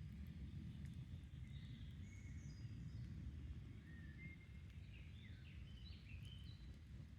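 Songbirds singing short whistled phrases and chirps over the steady low rush of a stream, with a few faint crackles from a wood campfire.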